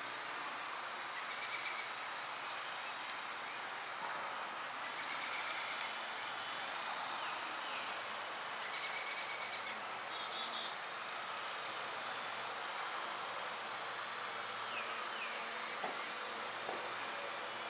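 Blade 120 SR micro RC helicopter in flight, its electric motors and rotors giving a steady, high-pitched buzzing whine.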